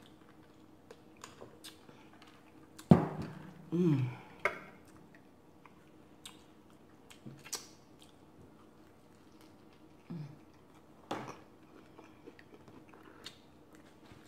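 Close-up chewing and mouth sounds of someone eating a beer-battered fish taco, with scattered clicks and smacks. A sharp, loud click about three seconds in, a brief hum of the voice just after, and two more sharp clicks near the end.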